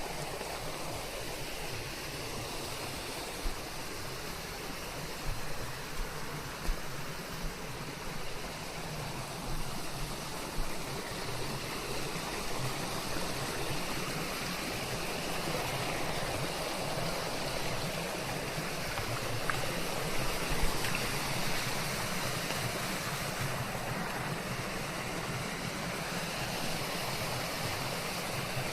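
Steady rain falling on forest leaves, a constant even hiss with scattered small drips and patters, blended with white noise.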